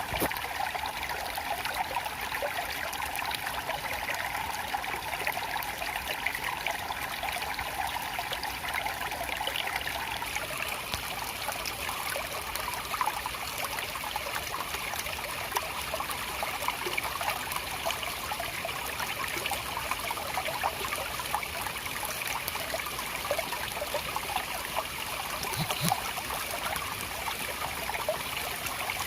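Water of a small stream flowing and trickling over rocks, a steady babble with small splashes.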